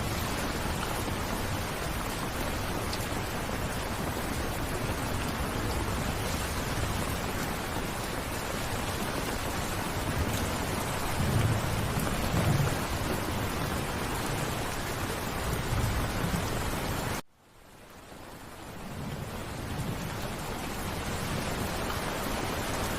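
Steady rain, with low rumbles of distant thunder about eleven to thirteen seconds in and again near sixteen seconds. About seventeen seconds in the sound cuts out suddenly and fades back in over a couple of seconds.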